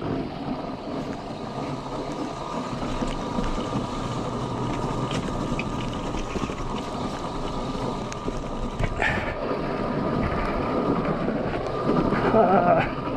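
Yatri P1 electric motorcycle riding over a rough road: steady wind and tyre noise with a thin steady whine, and a sharp knock about nine seconds in.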